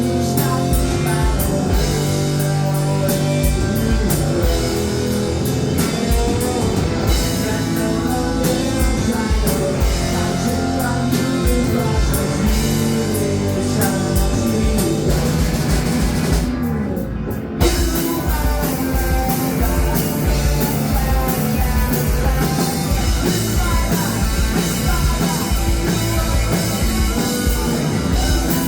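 Rock band playing live: electric guitars, bass and drum kit at full volume. About seventeen seconds in there is a short break where the cymbals drop out, then the band comes back in together on a hit.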